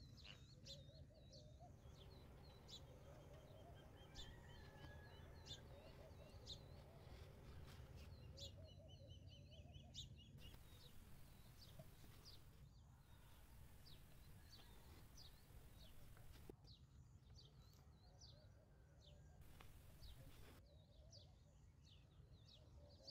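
Faint birdsong: many short, high chirps scattered throughout, over a low steady hum.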